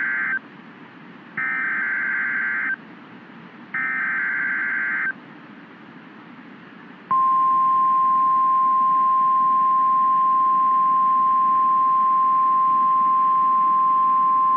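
NOAA Weather Radio emergency alert: repeated warbling SAME digital header bursts, each about a second long, then the steady single-pitched 1050 Hz Warning Alarm Tone, which starts about seven seconds in and holds. The tone signals that a severe thunderstorm warning is about to be read.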